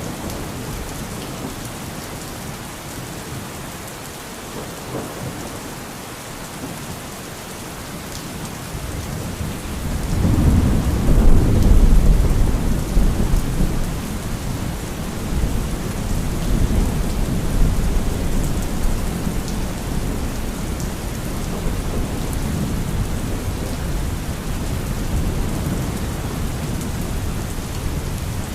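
Thunderstorm: steady heavy rain with a deep roll of thunder. The thunder swells about a third of the way in and is loudest just after. It then rumbles on and slowly fades under the rain.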